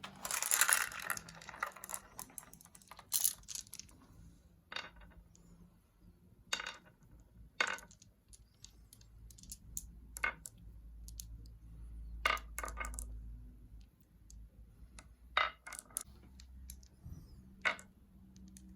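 Marbles clattering down a wooden ramp: a dense burst of rattling clicks at the start, then scattered single clicks and knocks as marbles hit and roll.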